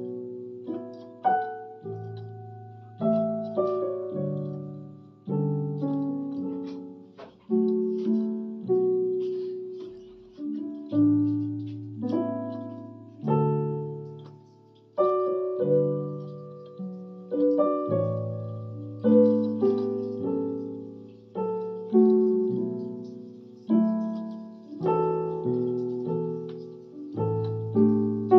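Electronic keyboard playing a slow Korean drama soundtrack tune in a piano voice: a melody over sustained chords, a new chord struck about every one to two seconds and dying away before the next.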